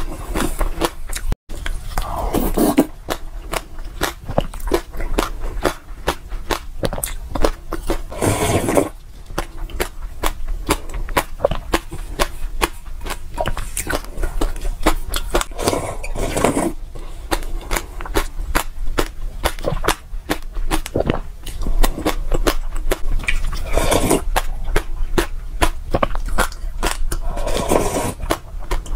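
Close-miked mouth sounds of a person eating soaked seeds: a dense, continuous run of sharp crackling clicks, with a louder, fuller mouth noise every several seconds. Near the end she sips liquid from the bowl.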